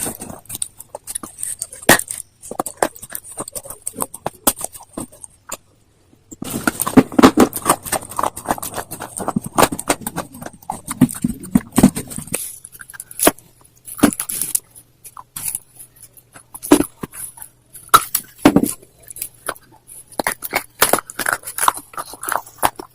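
Close-miked crunching of slate stone being bitten and chewed: sharp crunches throughout, with a dense run of steady chewing for several seconds in the middle.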